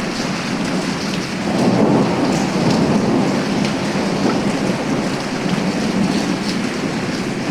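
Thunderstorm: steady rain with a low roll of thunder that swells up about a second and a half in and dies away slowly.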